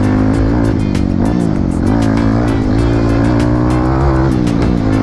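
Trail dirt bike engine running under load, its pitch rising and falling as the throttle is opened and eased, with a steady low rumble underneath.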